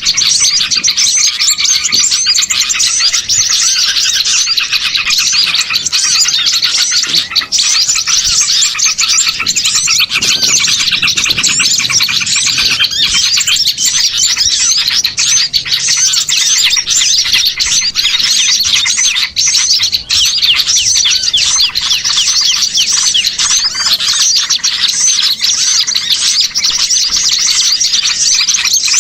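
A dense, continuous chorus of many small songbirds chirping and twittering rapidly over one another, a 'ribut' (noisy) small-bird lure recording of the kind played to draw wild small birds in.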